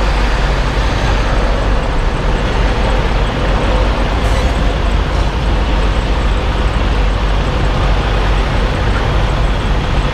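Semi-truck diesel engine running steadily at low speed while the tractor-trailer is backed up.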